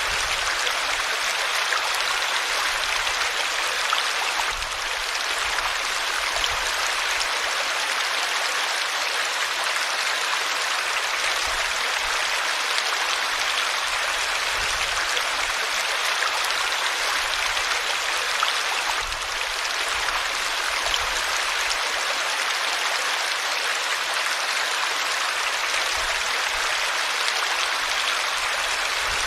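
River water flowing steadily over rocks in a continuous rushing hiss, with no change in its flow.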